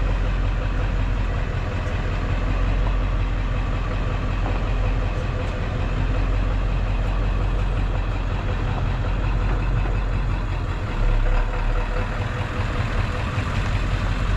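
A vehicle engine running steadily with a constant low rumble.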